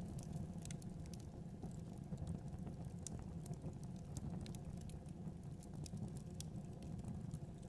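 Fire burning in a fireplace: a steady low rumble of flames with frequent small, irregular crackles and pops.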